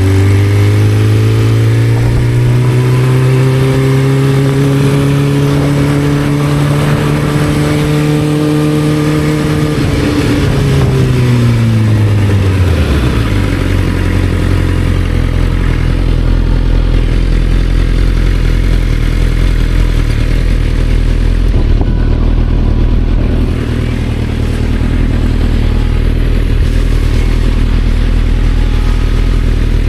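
Motorcycle engine under way, its pitch slowly rising for about ten seconds, then winding down over a few seconds to a steady low rumble at idle.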